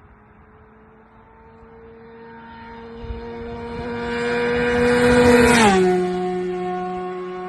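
Yamaha FZ6 S1 inline-four with a DominatoR GP exhaust, dB killer removed, riding past at steady revs. The exhaust note grows louder as it approaches, drops in pitch as it passes about five and a half seconds in, then carries on lower as it moves away.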